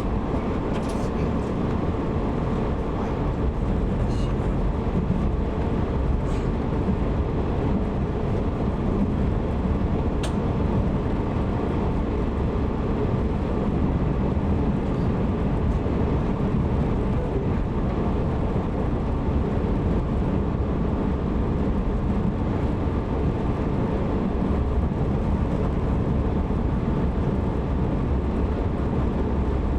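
Steady running noise of a JR 185 series electric multiple unit under way, heard from inside a passenger car: a low rumble of wheels on rail, with a few faint light clicks in the first ten seconds.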